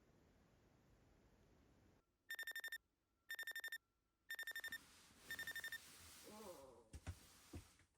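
Electronic alarm beeping in four bursts of rapid high beeps, one burst a second, then a brief vocal sound and two soft knocks near the end.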